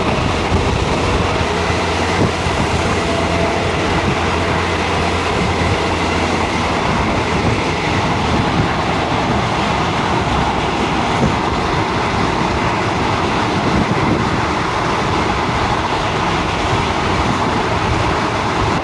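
A Thai passenger train in motion, heard from inside the carriage: a loud, steady running noise of wheels on the rails.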